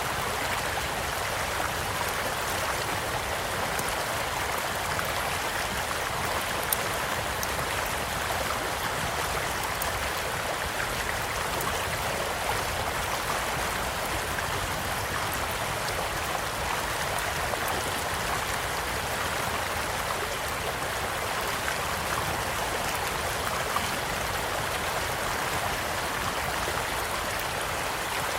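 Steady rush of a small flowing stream, with scattered sharp pops from a crackling campfire; one pop about seven seconds in stands out above the water.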